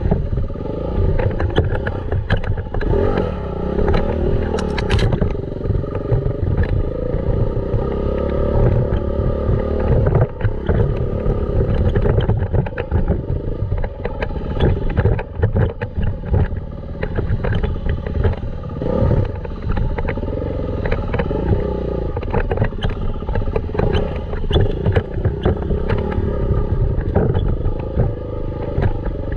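Dirt bike engine being ridden, its pitch rising and falling as the throttle opens and closes, with frequent knocks and clattering over rough ground and heavy rumble on the microphone.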